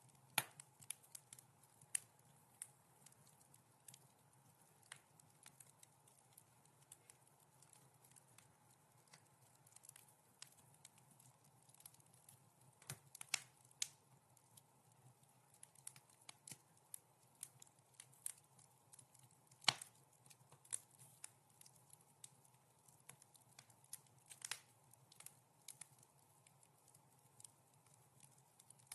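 Wood fire crackling softly in a fireplace: irregular small pops and snaps over a faint steady hiss, with a few louder snaps.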